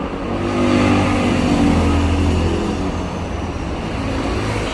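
A motor vehicle's engine running close by, a steady low hum that swells about a second in and then slowly eases.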